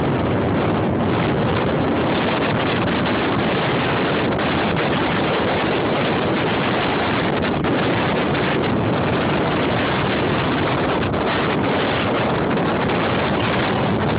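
High storm winds blowing hard against the microphone: a loud, steady rush of wind noise without letup.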